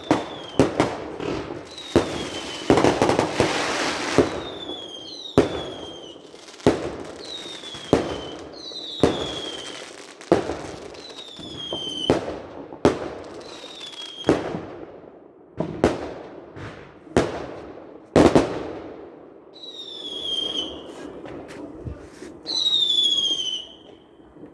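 A fireworks display: a rapid run of sharp bangs, roughly one every second, with a stretch of crackling about two to four seconds in. Many of the bangs come with a short falling whistle, and the longest, loudest whistle comes near the end.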